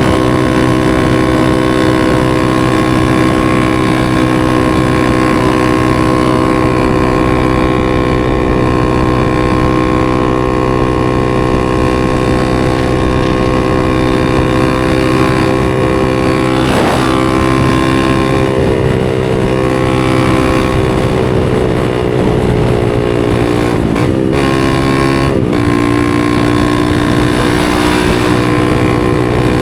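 250 cc supermoto motorcycle engine running at a steady, even pitch. About halfway through there is a brief wobble, and near the end there are two short breaks in the sound, after which the engine settles a little lower in pitch.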